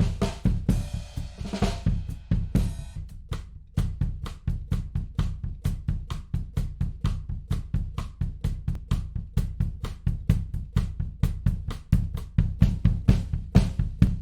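Drum kit playing a steady, busy beat of kick, snare and hi-hat, with a cymbal ringing through the first few seconds. It is a recorded drum track run through a tape emulation plugin.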